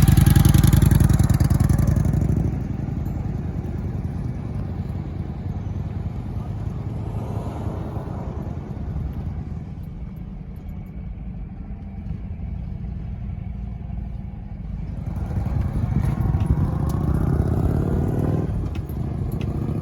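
Kawasaki Vulcan 900's V-twin motorcycle engine running. It is loud for the first couple of seconds, settles to a steadier, quieter note, then swells again for a few seconds near the end before easing off.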